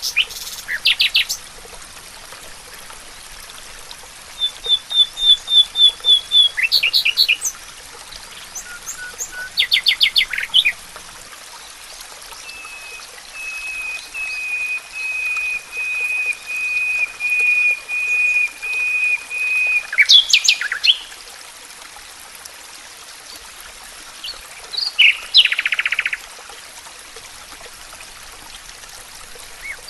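Several songbirds calling and singing: short quick trills, a brief run of high repeated notes, and a long series of evenly repeated whistled notes in the middle, over a steady faint hiss.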